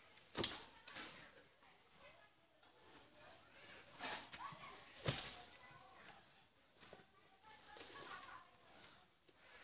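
A small bird repeating short high chirps about once a second, with two sharp knocks about half a second and five seconds in, the loudest sounds.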